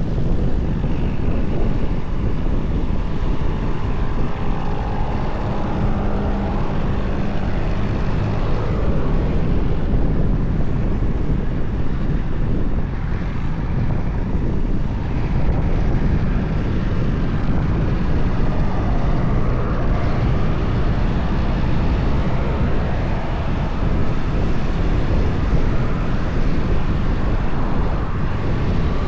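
Tractor engines running steadily, a loud low drone that hardly changes.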